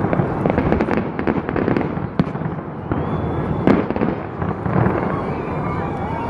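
Fireworks display: dense crackling and popping over a continuous low rumble of booms, with a sharper bang near four seconds in.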